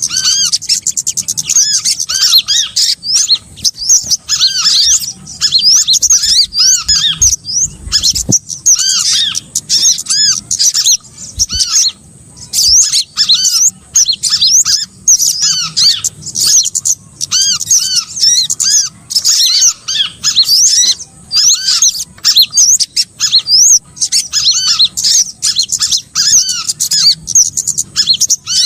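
Bird-lure recording of small songbirds calling: a dense tangle of rapid high chirps and twitters, with short arching whistled notes repeating lower down.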